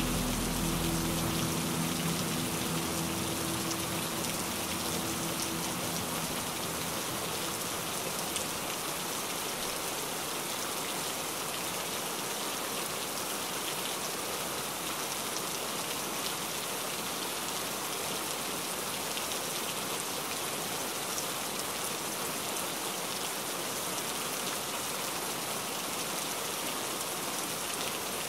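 Steady heavy rain falling, an even hiss of drops. In the first few seconds the low notes of background music fade away, leaving only the rain.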